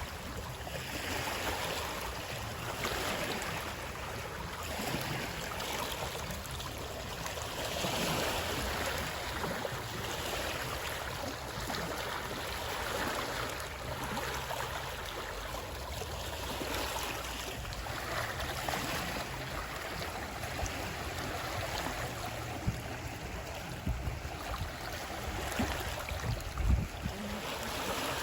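Running water flowing steadily, a continuous rushing with gentle swells in level. Several short, low knocks come through during the last few seconds.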